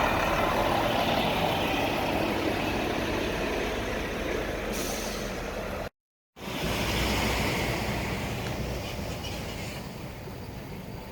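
Truck and road-traffic noise, broken by a half-second drop to silence about six seconds in, then fading toward the end.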